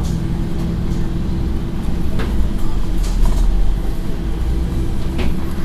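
Scania N113 bus engine running with a steady low drone, heard from inside the bus, with a few short rattles about two, three and five seconds in.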